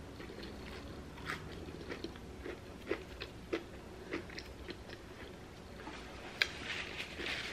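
Close-miked chewing of a Whopper topped with crushed Hot Cheetos: soft wet clicks and crunches about twice a second, then a denser crunch of a fresh bite near the end.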